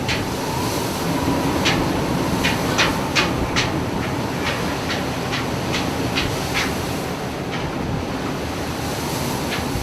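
Steady heavy rumble aboard a ship at sea, with irregular sharp clicks or rattles every half second or so throughout.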